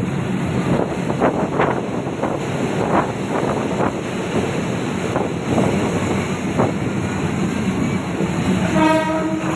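Diesel railcar train running along the track: a steady rumble with repeated wheel clatter over the rails. A train horn sounds just before the end.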